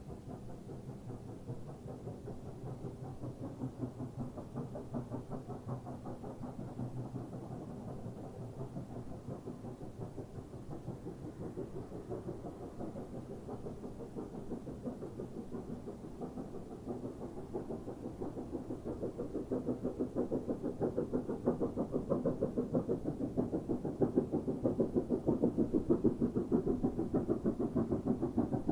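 SY-class 2-8-2 steam locomotive working, its exhaust beats in a fast, even rhythm, growing louder about two-thirds of the way in as it comes closer.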